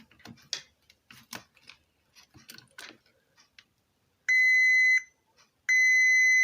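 Multimeter continuity beeper sounding two steady high beeps, each under a second, after a few light clicks of the test probes on the board. The beeps signal a short across the blown BD139/BD140 output transistors.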